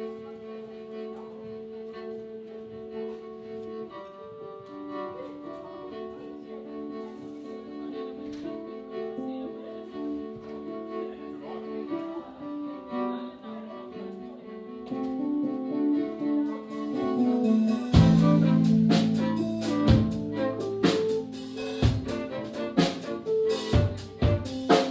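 A band playing live: a slow melody of held notes moving in steps, then drums and the full band come in loudly about three-quarters of the way through.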